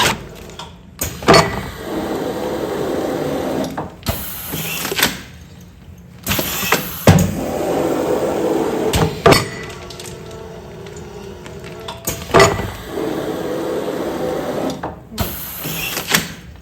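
Automatic food-container sealing machine cycling through repeated sealing strokes: sharp clunks as the press works, each followed by a couple of seconds of steady machine noise, repeating about every five and a half seconds, three times.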